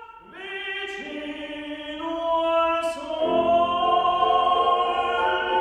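Classical choral singing in an operatic style. Several voices hold long notes, entering one after another to build up a chord that grows louder.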